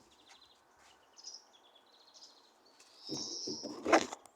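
Small songbirds chirping, with short high trills and rapid ticking calls. About three seconds in comes a louder rushing noise of about a second, peaking sharply near the end.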